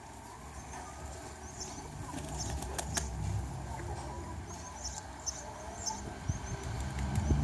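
Faint, high, short chirps of small birds scattered over a steady low rumble, with a few sharp clicks about three seconds in.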